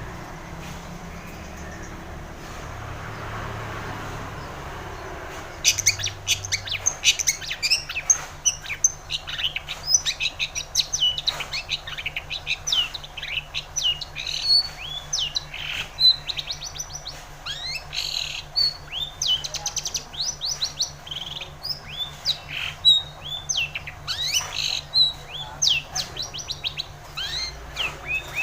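Long-tailed shrike (cendet) singing: a fast, busy string of sharp chirps and short falling notes that starts about five seconds in, after a few seconds of faint hiss.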